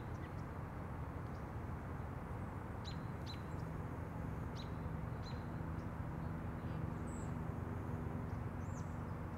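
Birds chirping: a handful of short, high chirps scattered every second or two over steady low background noise.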